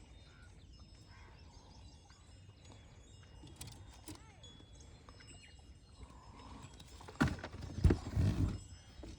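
Quiet outdoor ambience with faint bird-like chirping, then from about seven seconds in a few loud knocks and rustling handling noise.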